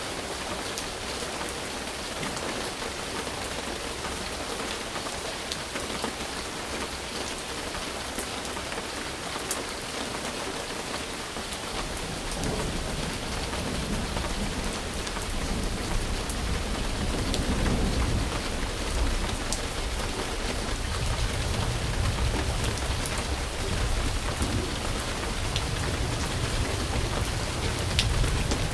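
Steady rain falling, an even hiss with scattered sharp drop ticks. About twelve seconds in, a low rumble of distant thunder comes in and keeps rolling under the rain.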